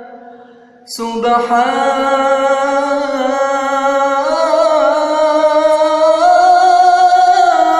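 A man singing an Islamic nasheed, holding one long drawn-out melodic line without words. It comes in about a second in after a brief pause and steps up in pitch twice.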